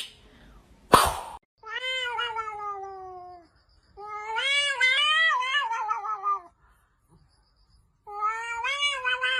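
A domestic cat giving three long, drawn-out meows, the first sliding down in pitch and the second wavering up and down. A brief sharp noise comes about a second in, before the first meow.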